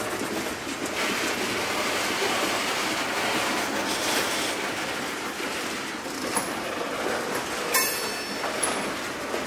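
Covered hopper cars of a freight train rolling slowly past, steel wheels on the rails giving a steady rumble and clatter, with a brief sharp metallic noise near the end.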